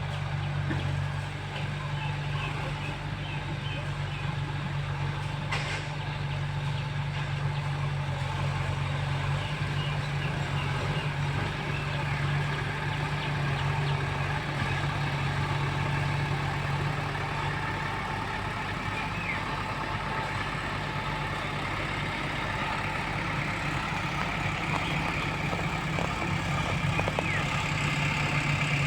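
Heavy diesel engine running steadily at a low, even speed, with a small change in pitch about two-thirds of the way through.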